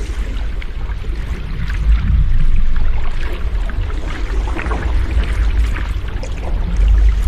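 Sea waves washing in: a steady low rumble with fizzing, crackling spray. It swells louder about two seconds in, eases off, and builds again near the end.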